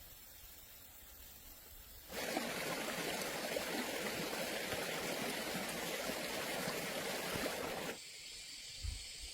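A steady rush of running water that starts suddenly about two seconds in and cuts off abruptly near the end.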